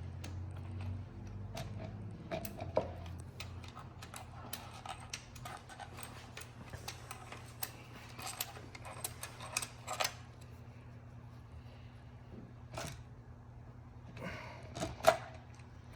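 Scattered, irregular light metal clicks and clinks of hand tools and small parts being handled during an automatic transmission teardown, over a low steady hum that fades about four seconds in.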